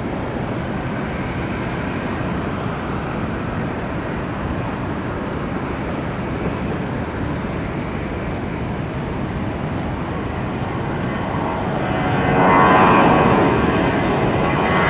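Jet airliner engines at takeoff power, a steady rumble that grows louder about eleven seconds in, where a dense whine of many tones rises out of it and peaks shortly after.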